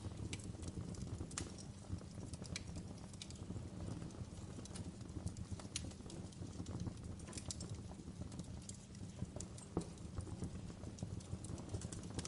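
Fireplace crackling: a low steady rumble under irregular sharp pops and snaps of burning wood.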